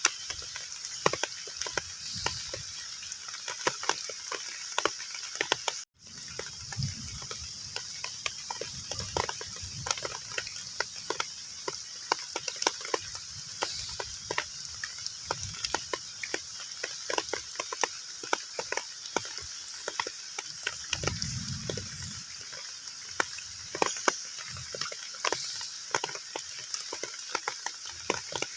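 Heavy rain falling on a pond, a steady hiss thick with the plinks and splashes of single drops hitting the water. Low rumbles come through twice, and the sound cuts out for a split second about six seconds in.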